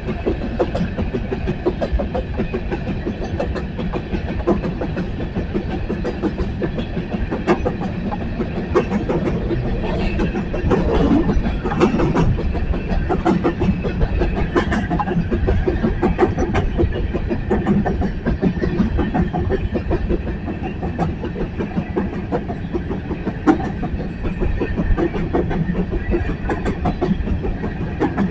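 Empty coal train's hopper cars rolling past, with wheels clicking steadily over the rail joints and a constant rumble.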